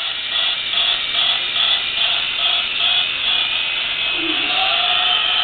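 Toy Christmas-tree train running: a small electric motor's whine with a tinny, even pulsing of about three beats a second.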